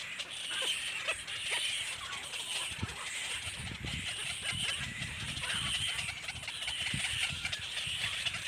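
Baby birds calling in a continuous high-pitched chatter that rises and falls, over low rumbling background noise.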